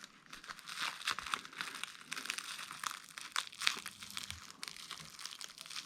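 Plastic packaging crinkling and crackling as it is handled and pulled away from replacement LED backlight strips, a dense run of small crackles.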